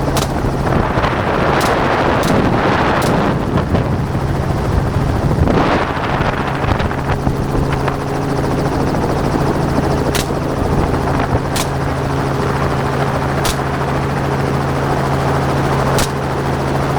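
Helicopter engine and rotor droning steadily, with about eight gunshots fired at hogs from the aircraft: four in the first three seconds, then single shots spaced a few seconds apart.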